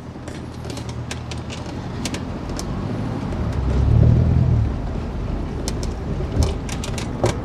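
Reliant Kitten's all-alloy 848cc four-cylinder engine running as the car moves slowly and turns, louder for a moment about four seconds in, with scattered light crackles from the tyres on wet tarmac.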